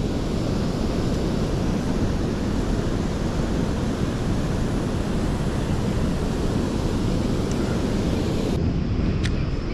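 Steady wind noise buffeting the microphone, with a faint click near the end.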